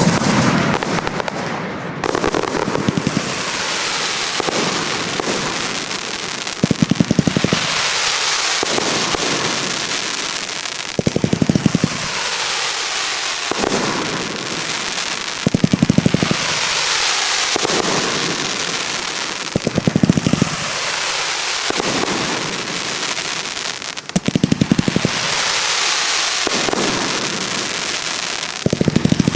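Fireworks display: a salvo of rapid bangs about every four to five seconds, each followed by a few seconds of dense crackling fizz.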